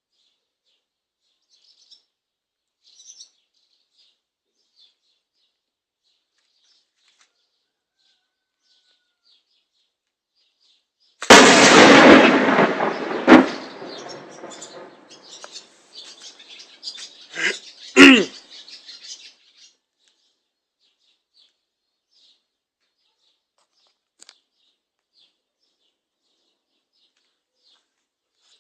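Artillery shell explosions: a sudden loud blast about eleven seconds in with a long fading tail, a second sharp bang two seconds later, and another loud bang around eighteen seconds. Birds chirp faintly throughout.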